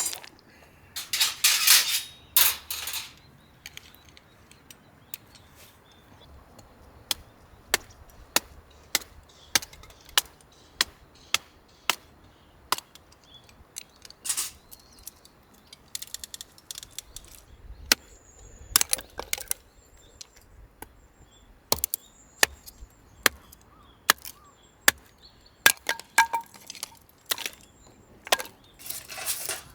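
Firewood giving off a series of sharp cracks and knocks, at times about one a second, with a few longer, louder snaps in the first few seconds.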